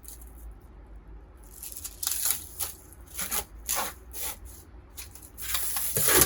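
A series of about six short, scratchy rubbing strokes, the longest and loudest near the end.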